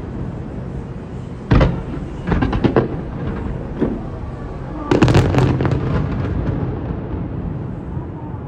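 Aerial fireworks bursting: a sharp bang about a second and a half in, a quick run of bangs a second later, another near four seconds, and a dense cluster of bangs about five seconds in. A steady low rumble lies under the bursts.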